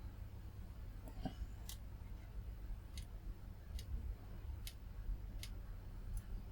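A handful of light, sharp clicks, about one a second, over a low steady hum.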